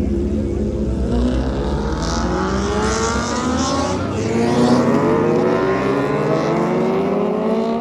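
A car engine revving hard, its pitch climbing steadily for several seconds, with a hiss of higher noise over it in the middle.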